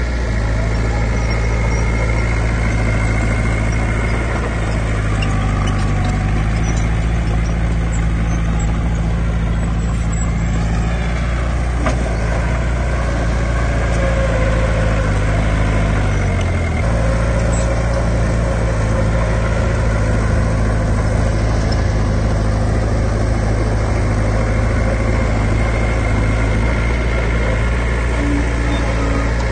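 Heavy diesel engine of earthmoving equipment running steadily. Its pitch rises a little about five seconds in, then dips briefly and recovers a little past halfway.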